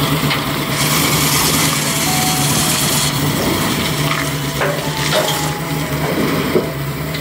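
A 1969 Dodge Charger R/T's V8 engine running as the car drives slowly down off a trailer and away, with a steady hiss over it.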